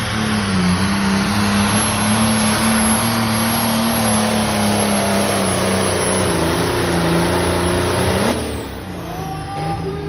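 Massey Ferguson 1100 Pro Farm pulling tractor's diesel engine running flat out under load during a pull, with a high steady whistle above it. About eight seconds in the power drops off suddenly and the whistle falls away in pitch as the run ends.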